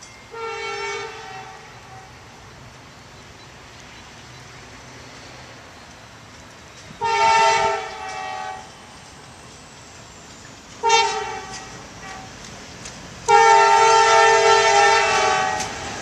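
Diesel locomotive air horn sounding four blasts of several notes at once: a long one near the start, another long one about seven seconds in, a short one, then a final long one, the loudest. The long-long-short-long pattern is the standard grade-crossing warning.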